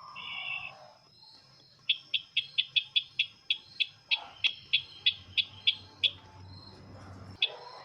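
Call of the bird known locally as sisintar ladang, the call that bird trappers use as a lure: a run of short, sharp high notes at about four a second, slowing near the end, with a faint steady high tone behind.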